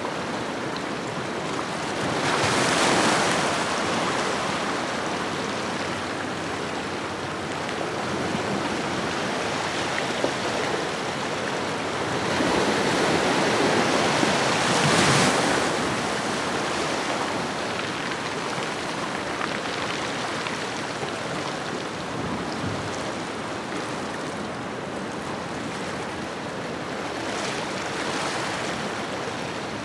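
Ocean waves washing on a shore: a steady surf hiss that swells into louder breaking waves about three seconds in and again around the middle, with a smaller one near the end.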